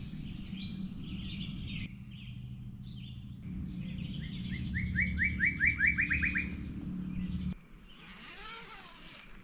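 Wild birds singing and chirping in a chorus, with a loud run of about eight quick rising notes in the middle. A steady low background noise runs underneath and cuts off suddenly about three-quarters of the way through.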